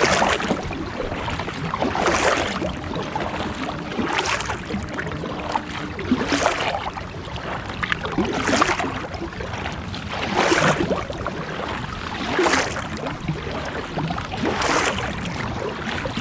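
Kayak paddle strokes in the water, an even swish about every two seconds, the steady rhythm of someone paddling along.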